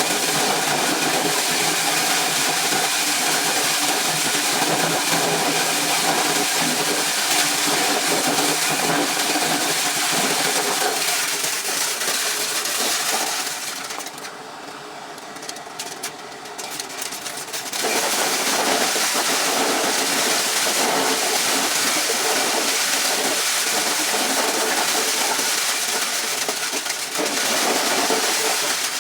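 Corn shelling machine running steadily with a dense mechanical noise. It goes quieter for a few seconds about halfway through, then comes back to full level.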